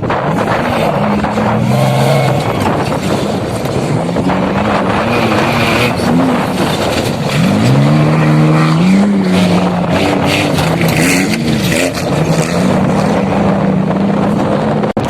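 Off-road motorcycle engine revving up and down over and over, its pitch rising and dropping as the throttle is worked, under a steady rushing noise.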